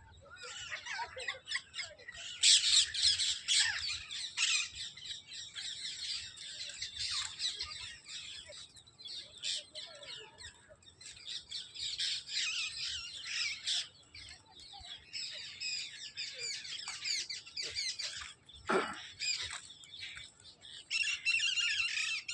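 Flock of birds calling together, a dense chatter of short squawks and chirps, loudest about two to four seconds in. Near the end one call sweeps steeply down in pitch.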